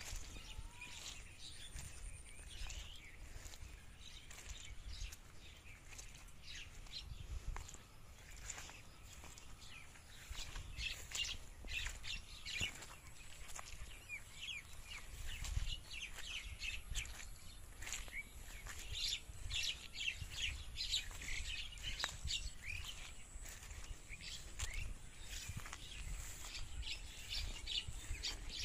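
Many small birds chirping and twittering in quick, short notes, sparse at first and busier from about a third of the way in, over a low rumble.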